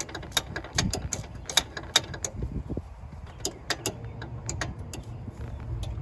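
Irregular sharp metallic clicks and clinks of hand tools and parts being worked on a car's wheel hub assembly, over a low background rumble.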